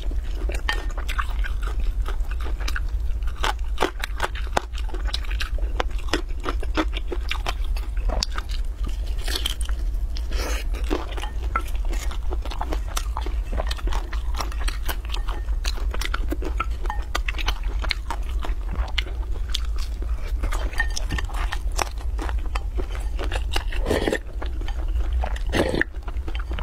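Close-up chewing and crunching of a crisp fried pastry: a dense, irregular run of small crackles and mouth sounds, over a steady low hum.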